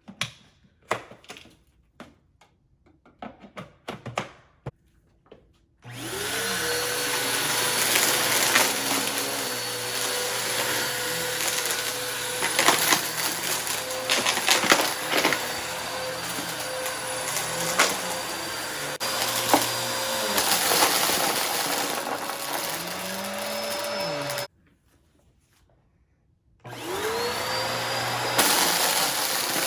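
Upright vacuum cleaner switched on after a few clicks, its motor spinning up to a steady whine and running with frequent sharp crackles as it sucks up dry debris from the mess test. About 18 seconds later it cuts off suddenly, then about two seconds after that it is switched on again and spins back up.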